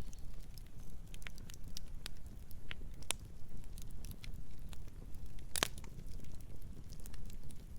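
Campfire burning: a low steady rumble of flames with scattered sharp crackles and pops, the loudest pop a little past halfway.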